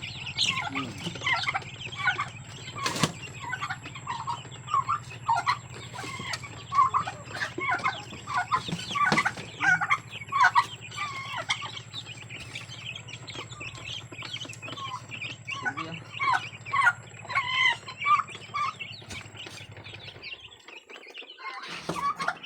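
A flock of chickens clucking and calling, many short irregular calls overlapping, at feeding time. A steady low hum runs under them and stops about 20 seconds in, and there is one sharp click about 3 seconds in.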